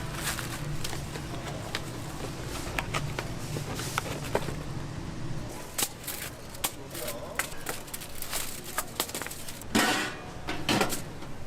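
Restaurant kitchen work: scattered clicks and knocks of utensils over a steady machine hum that stops about halfway, with two short, louder rushing noises near the end.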